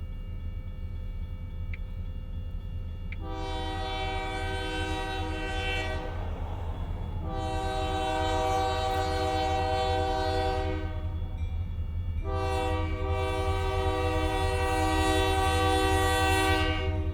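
Diesel locomotive air horn sounding three long chord blasts, the last held the longest, over a low rumble that grows louder.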